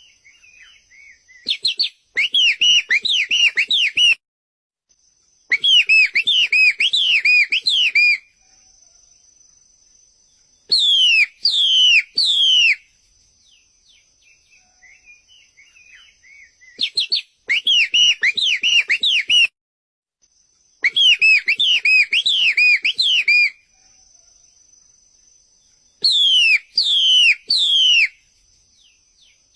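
White-rumped shama (murai batu) song: loud phrases of rapid, downward-sweeping whistled notes in three bursts of two to three seconds each, the same sequence repeating about fifteen seconds later as in a looped masteran training recording. A faint steady high tone and soft chirps fill the gaps between phrases.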